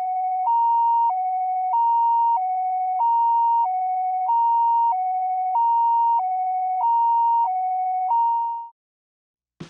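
Japanese ambulance-style two-tone electronic siren, a high and a low tone alternating evenly about every two-thirds of a second, stopping abruptly near the end.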